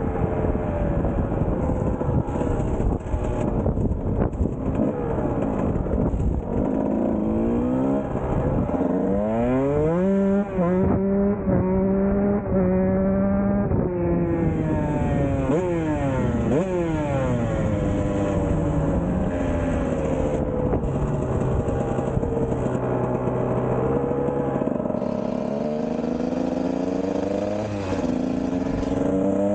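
Kawasaki KX125 two-stroke dirt bike engine being ridden, revving up and dropping back again and again as the throttle opens and closes, with a held higher-pitched stretch about a third of the way in. It is running on a premix leaned out with extra plain gas, which the owner thought sounded a little lean.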